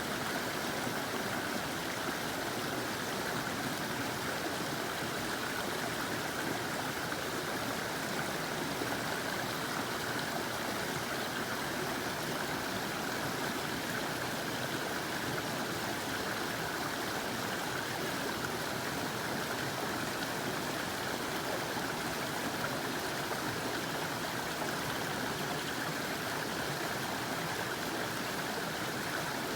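Water spilling over a small creek waterfall, rushing steadily and evenly.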